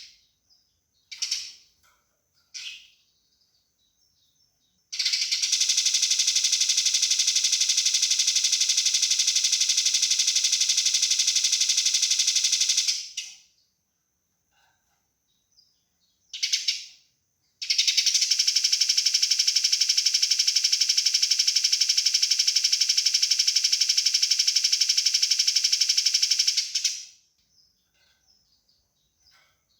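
Eurasian tree sparrow fighting calls: a couple of short chirps, then two long, very rapid rattling trains of chirps, each lasting about eight seconds, with a single short chirp between them.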